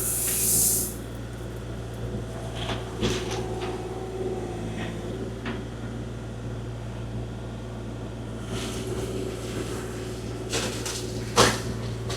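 Kubota KX040-4 mini excavator's diesel engine running steadily while working, with a hiss in the first second and a few short clanks, the sharpest near the end.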